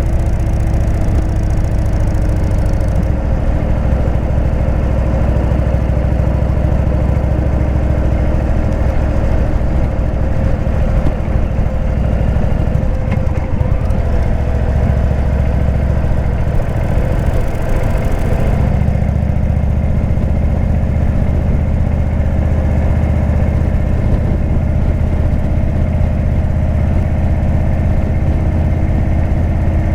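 Indian V-twin motorcycle engine with a Jekill & Hyde exhaust running steadily, its note drifting slowly in pitch, with a brief hiss about two-thirds of the way in.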